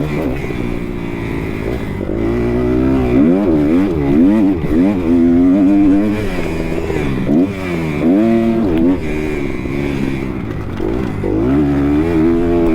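Kawasaki KX250 motocross bike's engine revving hard and easing off several times in quick succession as the rider works the throttle around the track.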